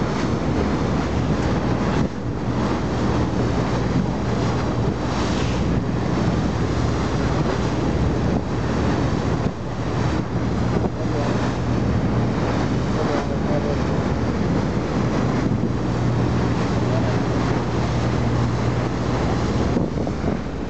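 A boat's engine running with a steady low hum, mixed with wind buffeting the microphone and the rush of sea water against the hull.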